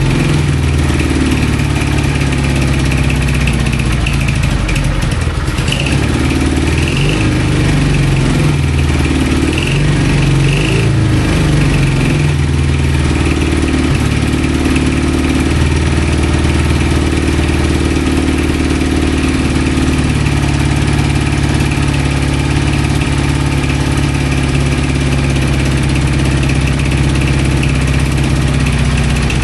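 CJ750 motorcycle's flat-twin engine running on choke, its speed wavering for several seconds early on before settling into a steady idle. It only stays running with the choke on, which the owner suspects means it is running too lean.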